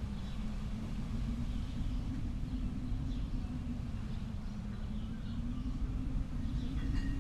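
Steady low rumbling nature ambience, with faint, brief bird chirps now and then.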